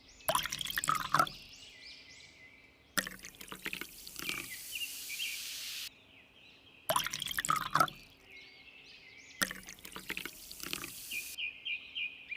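Water splashing and pouring in several short bursts, each starting and stopping abruptly.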